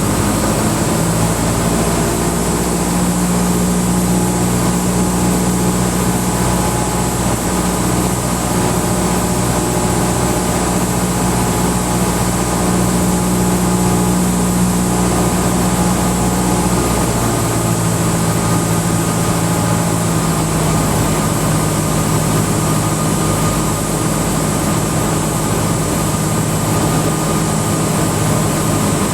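Cessna 172 Skyhawk's four-cylinder piston engine and propeller droning steadily in the cabin on final approach; the note drops a little about two-thirds of the way through.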